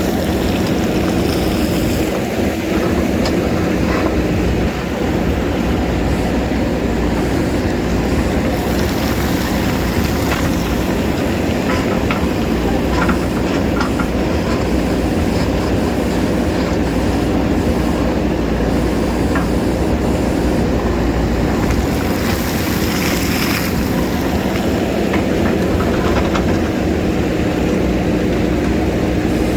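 JCB backhoe loader's diesel engine running steadily at working revs, with scattered short knocks and clicks.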